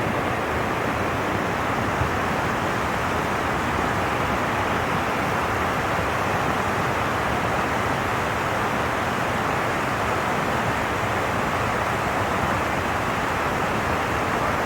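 Swollen river running high and fast after heavy rain upstream, a steady rushing of water with no let-up.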